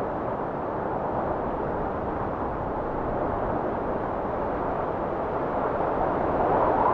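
Steady blizzard wind blowing, a dense rushing noise that swells slightly near the end.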